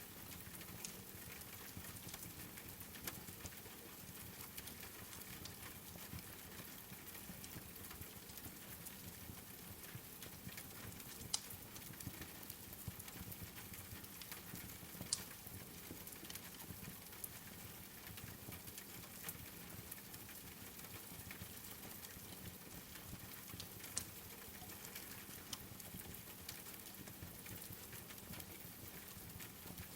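Steady patter of rain with a wood fire crackling throughout, and a few sharper pops from the burning logs, the loudest about eleven, fifteen and twenty-four seconds in.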